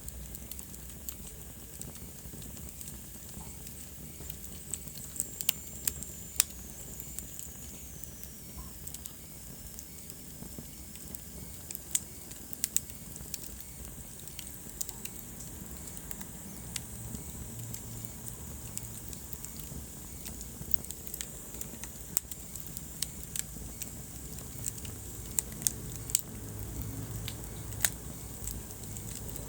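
Wood fire burning in a fireplace: irregular sharp crackles and pops over a steady low rumble of flames. A faint high whistle falls in pitch about five to nine seconds in.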